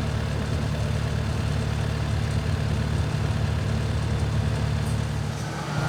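Engine running steadily with a low, even hum, which drops away shortly before the end.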